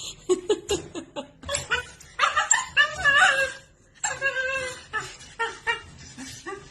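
A person laughing in quick bursts, with longer pitched vocal stretches a couple of seconds in and again about four seconds in.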